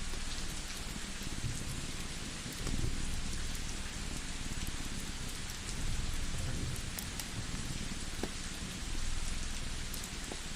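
Layered ambience track: steady rain hiss with a wood fire crackling in scattered small pops, over a low cat purr that swells about every three seconds.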